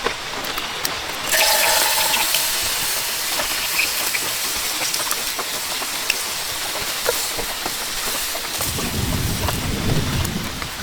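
Heavy rain pouring steadily, growing louder and hissier about a second in. Low rumbling thunder comes in near the end.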